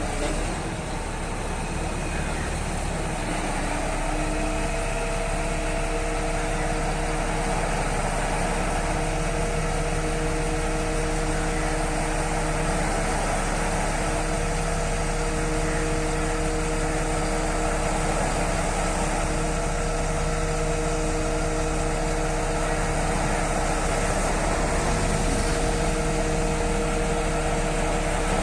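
Mobile crane's engine running steadily, with a steady whine carried over the engine noise.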